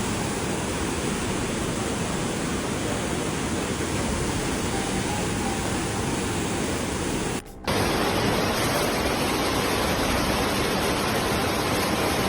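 Floodwater rushing, a steady wash of noise. It breaks off briefly about seven and a half seconds in, then another stretch of rushing water follows.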